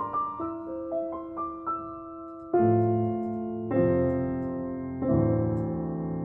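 Background piano music: a slow melody of single notes, then full chords struck about every second and a half, each left to ring and fade.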